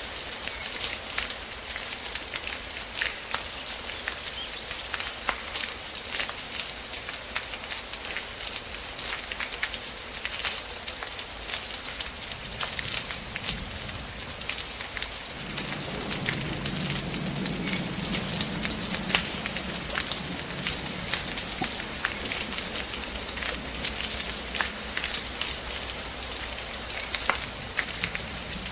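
Steady rain falling, with many sharp individual drop hits. A low hum joins about halfway through.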